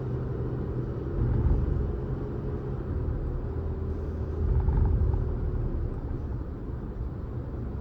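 A car driving along a road: a steady low rumble of engine and tyre noise with a faint steady hum. It swells about a second and a half in and again around five seconds.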